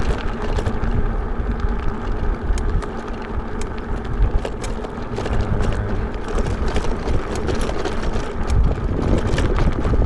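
Riding an e-bike: wind buffeting the microphone over a steady rumble of tyres on the road, with many sharp clicks and rattles scattered throughout.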